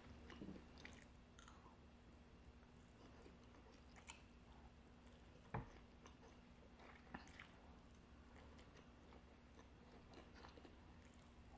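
Faint close-up chewing and eating of instant fried noodles, with scattered light clicks and one sharper knock about five and a half seconds in.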